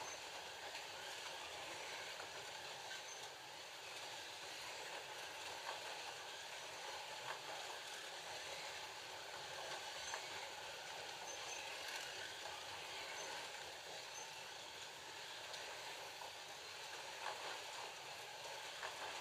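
FLY Classic slot cars with 19K motors running laps on the track: a steady whir of the small electric motors and pickup braids, with a few faint clicks.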